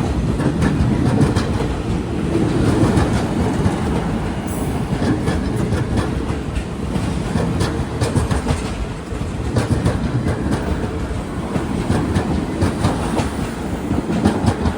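A train rolling past with a steady heavy rumble, its wheels clicking repeatedly over the rail joints.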